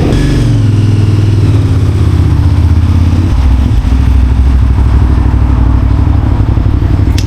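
Motorcycle engine running at low revs close by, loud and steady; its pitch drops a little about three seconds in. A sharp click comes near the end.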